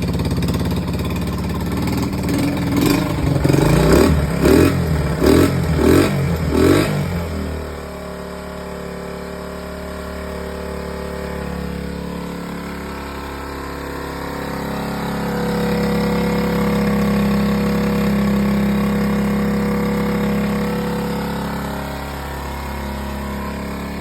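1971 Honda SL70's 72cc single-cylinder four-stroke engine running on a cold day. About five quick throttle blips come between two and seven seconds in, then it settles back to a steady idle that wanders slightly up and down.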